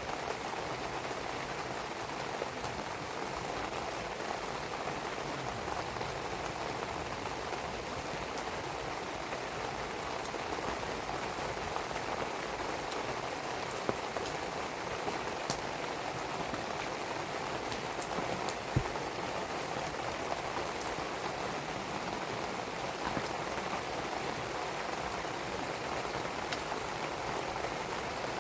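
Steady rain falling, with scattered sharp crackles and pops from a burning wood fire. A few louder pops come about halfway through.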